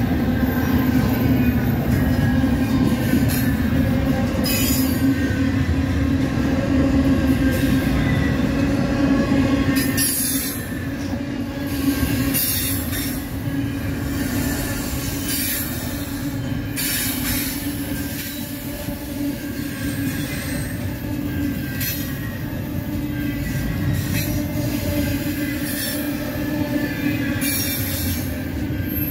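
Loaded double-stack container well cars of a freight train rolling past close by, steel wheels rumbling on the rails with a steady squeal. It gets somewhat quieter about ten seconds in.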